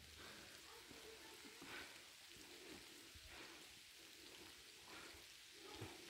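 Faint light rain pattering, barely above silence.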